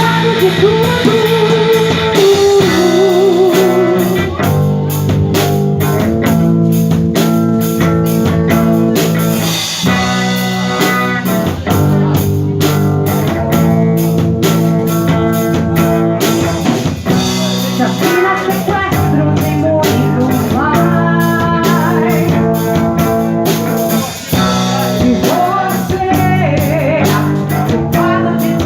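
Live rock band playing: distorted electric guitar, bass and drum kit, with a wavering lead voice or guitar line over them.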